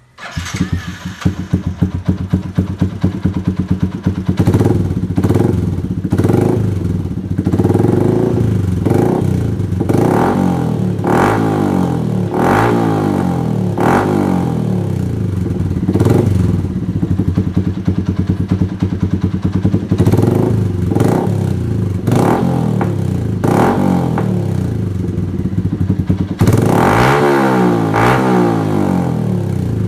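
Yamaha MX King 150's single-cylinder four-stroke engine through a road-race style aftermarket exhaust, idling and revved in repeated short throttle blips, with a longer, higher rev near the end.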